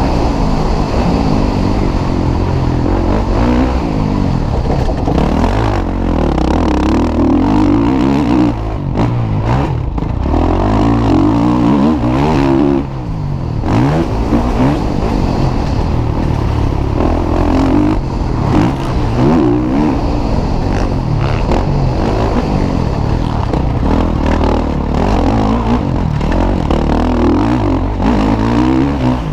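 Motocross bikes racing, engines revving up and dropping back again and again as they accelerate and shift through the gears.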